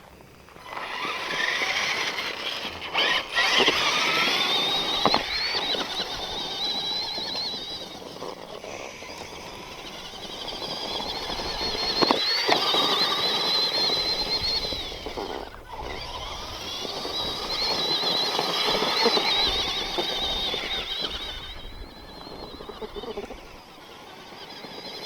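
Axial SMT10 Grave Digger RC monster truck's electric motor and gears whining high under throttle, rising and falling in several long surges as it drives, with the noise of its tyres on the ground and a sharp knock about twelve seconds in.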